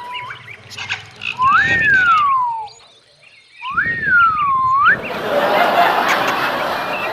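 Pet parrot whistling two pure, sliding notes: the first rises then falls, the second rises, falls and rises again. After them comes about two seconds of rough, harsh noise.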